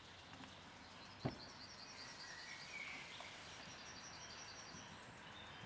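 A small songbird repeating quick high chirps in two runs, over a faint outdoor hiss. A single sharp knock about a second in is the loudest sound.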